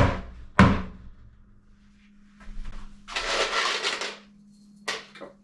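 Wooden cabinet parts being handled: two sharp knocks about half a second apart, then a scraping slide lasting about a second, and a sharp click near the end.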